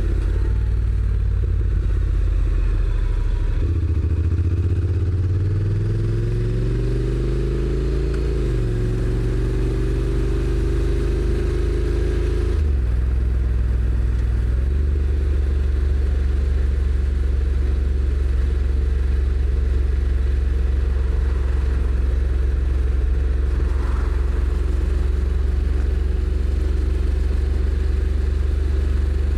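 Honda NC750X parallel-twin engine pulling away, its note rising from about four seconds in and stepping down with a quick automatic gearshift near eight seconds. It drops again at about twelve seconds and then runs at a steady cruising pitch.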